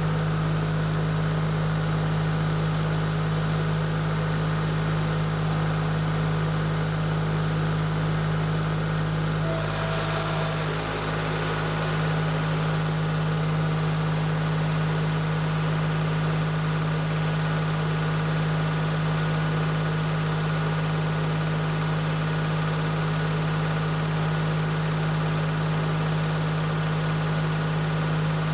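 An engine running steadily at a constant idle: an even, unchanging low hum, briefly disturbed about ten seconds in.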